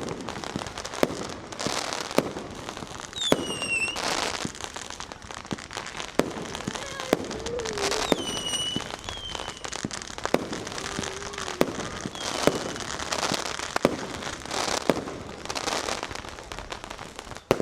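Fireworks going off in a dense barrage: repeated sharp bangs over continuous crackling, with several high whistles gliding down in pitch.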